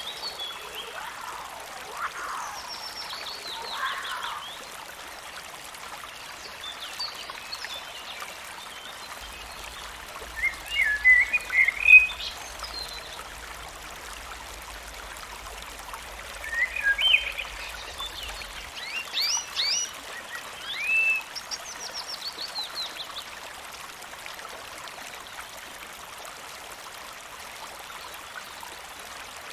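Clusters of short, high chirping animal calls, quick rising and falling sweeps, over a steady rush like running water. The calls come in a few bursts, the loudest in the middle, with only the water-like rush near the end.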